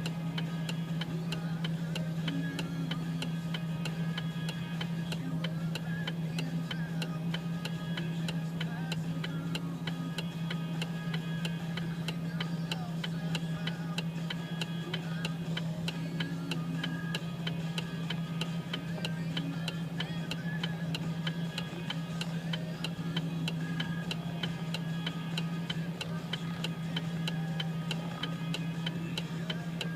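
A steady low hum with rapid, even ticking over it.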